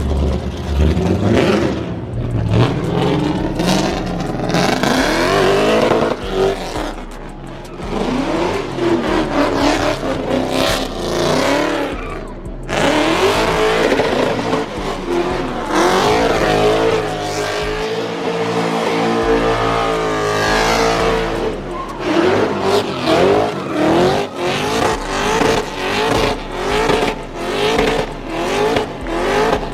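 Car engine revving hard while its tires squeal, as a car does donuts: the revs climb, hold high for a few seconds in the middle, then pulse up and down quickly, about one and a half times a second, near the end.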